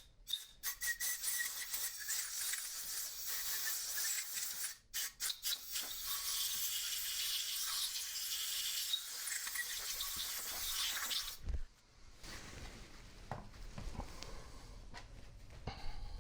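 Steady hissing, rubbing noise of a power steering pump part being cleaned, running about eleven seconds with a short break near five seconds in, then giving way to quieter clicks of parts being handled.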